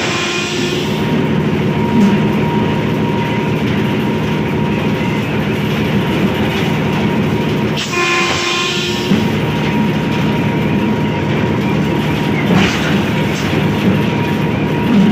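HBU 20 diesel locomotive running at speed, with a steady rumble of the train on the track. The multi-tone horn sounds once for about a second halfway through, after a horn blast that cuts off right at the start.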